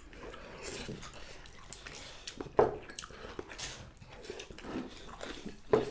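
Close-up chewing and mouth sounds of people eating a tofu and vegetable stir-fry with chopsticks, with a few short, sharp smacks or clicks, the loudest about two and a half seconds in and near the end.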